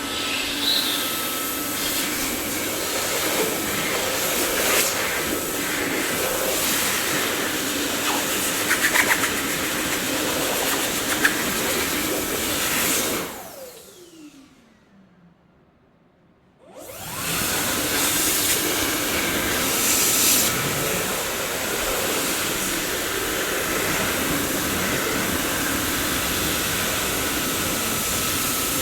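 Dyson vacuum cleaner running with a steady rushing noise and a few brief clicks. About 13 seconds in it is switched off and its motor whine falls in pitch as it spins down. After a couple of seconds of near silence it starts up again and runs steadily.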